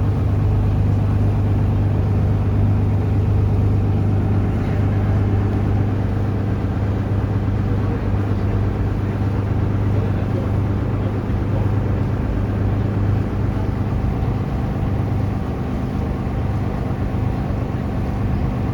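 Taxi boat's engine running steadily underway: a constant low drone with a broad rushing noise over it, easing slightly near the end.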